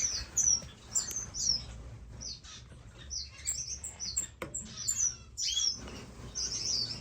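Many small captive finches chirping together, a steady overlapping stream of short, high, falling calls.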